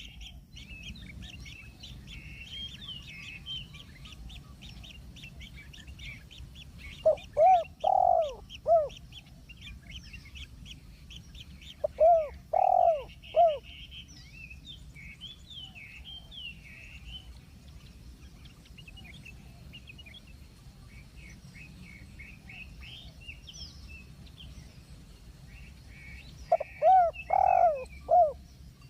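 Birds: a steady run of high, thin chirps, with three loud groups of about four short, low, hooting notes standing out (about 8 s in, 13 s in, and near the end).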